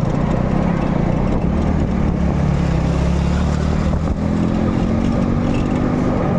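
An engine running steadily with a low hum whose pitch rises a little about four seconds in.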